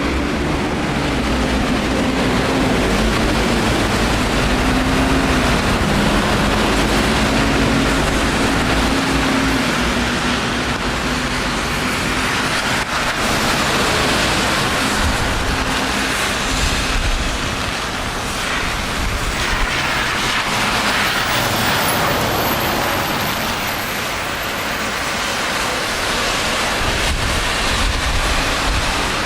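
Wet city street traffic in the rain: a steady hiss of rain and tyres on wet road, with a vehicle engine humming low through roughly the first twelve seconds.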